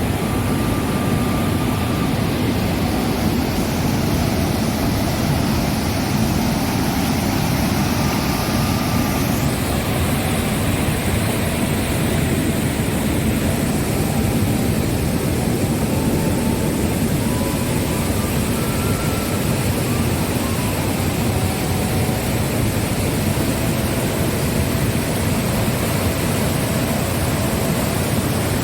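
Steady rushing of water over the rocks of a jungle river cascade, with a few faint, thin high tones over it.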